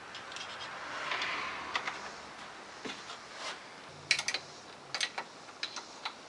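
Metal parts of a heavy milling attachment being handled and fitted onto a lathe: scattered sharp clicks and taps, a short scraping rush about a second in, and a cluster of clinks later on.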